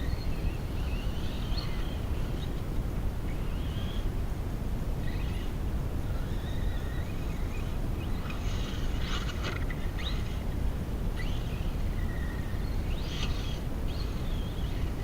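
RC car's Leopard 4082 brushless motor whining, its pitch rising and falling as the throttle goes on and off, over a steady low rumble. Short bursts of rough noise come about eight to ten seconds in and again near thirteen seconds.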